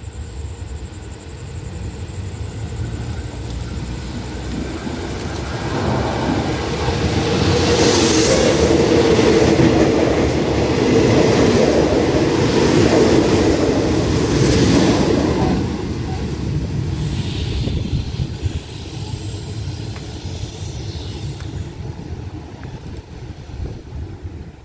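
A four-car express train approaches and runs past at speed. Its rumble and wheel noise build over a few seconds and are loudest for about ten seconds as the cars go by. The sound then fades as the train carries on down the line.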